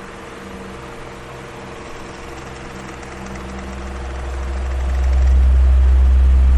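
Electric fan running, a steady whir with a hum and a low rumble; the rumble grows louder about halfway through, then holds.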